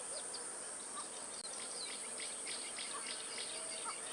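Nature ambience of insects chirping in a steady repeated pulse, with a few short bird chirps and a constant high hiss.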